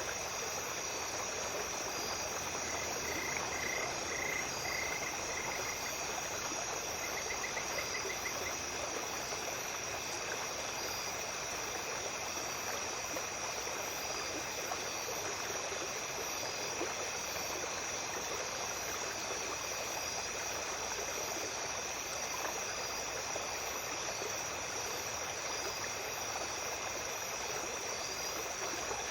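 Small stream running steadily at night, with insects trilling continuously over the water. About three seconds in, and again around seven seconds, a short run of rapid pulsed calls sounds above the trilling.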